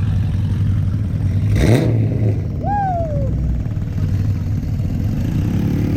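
Vehicle engine running steadily at low revs, with a brief rev about a second and a half in.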